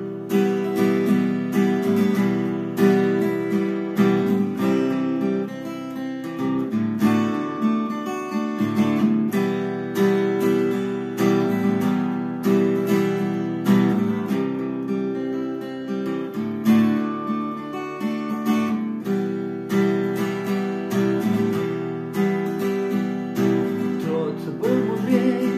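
Acoustic guitar strummed in steady chords, an instrumental break between sung verses.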